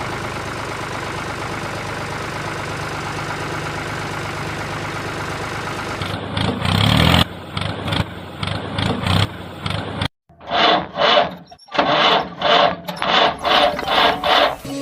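A small engine running steadily, then a run of short, uneven mechanical bursts. After a brief break near the end, a quick series of short pulses follows, about two a second.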